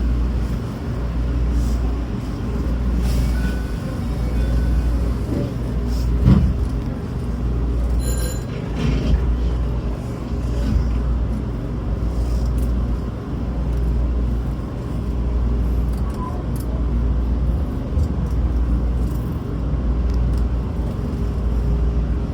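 Hanshin Railway electric train running, heard from inside the carriage: a steady low rumble that swells and fades in even waves about every two seconds. There is one sharp knock about six seconds in.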